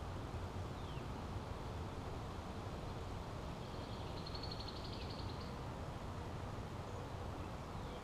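Steady low outdoor rumble. About halfway through a wild bird gives one short, high, rapid trill, and a couple of faint thin chirps come before and after it.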